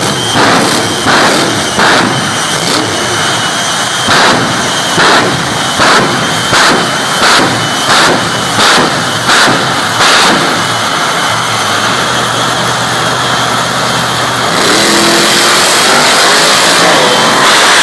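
Monster truck engine revving in a string of short, evenly spaced blasts for about ten seconds, then running steadily and loud.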